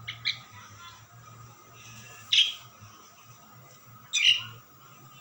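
Asian pied starling (jalak suren) calling: two short calls at the very start, then two loud calls about two seconds apart, over a faint steady hum.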